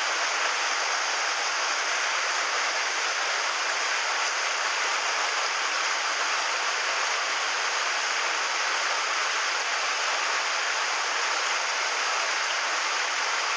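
Mountain stream water rushing over rocks, a steady even rush with no change.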